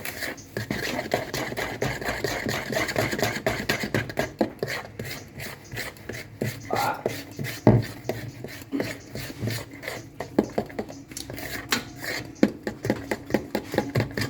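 Kitchen utensils clattering and scraping against a bowl: many uneven knocks and clicks, with one sharper knock about halfway through.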